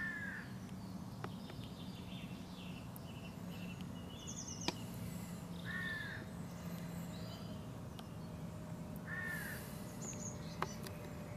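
Outdoor birdsong: a bird gives a short arched call three times, several seconds apart, among other small chirps over a low steady hum. Two sharp clicks stand out, a little under halfway through and near the end.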